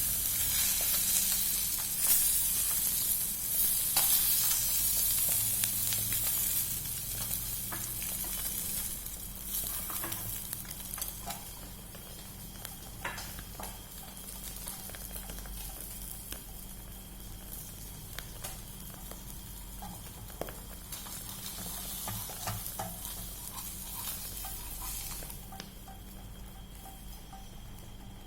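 Food frying in hot oil, sizzling, with occasional clicks and taps of a cooking utensil. The sizzle is loudest for the first ten seconds or so, then settles down softer.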